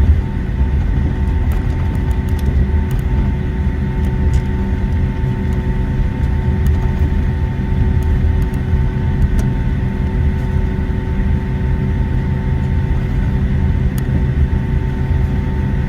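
Boeing 757-200 jet engines idling, heard from inside the cabin while the airliner taxis: a steady hum with several held tones over a low rumble, and a few faint ticks.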